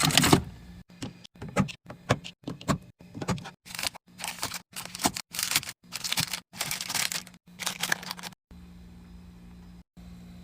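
Packaging being torn, crinkled and handled in a quick series of short rustling bursts, with a few knocks as items are moved. The bursts stop about eight seconds in, leaving a steady low hum.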